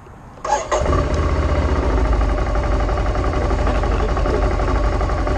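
The 2020 Ducati Scrambler Cafe Racer's air-cooled L-twin catches after a brief crank about half a second in, then runs steadily at idle.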